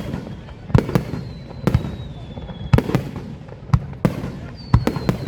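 Fireworks bursting overhead: a quick irregular series of sharp bangs, one or two a second, with a faint high whistle slowly falling in pitch between them.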